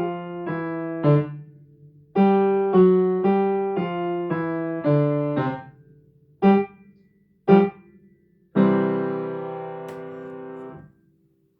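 Piano playing the closing bars of a simple rag at regular speed: a run of two-note chords, then two short detached chords about a second apart, and a final chord held about two seconds before it is cut off.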